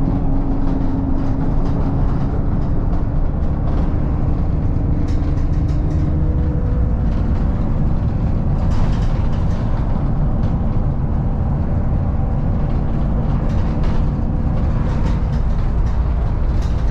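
Bus engine and road noise from inside the passenger cabin: a steady low rumble with an engine tone that steps down in pitch about seven seconds in.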